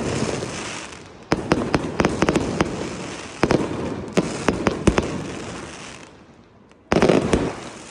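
Aerial firework shells bursting: four sharp booms spaced one to three seconds apart, each followed by a spray of crackling pops and a fading rumble.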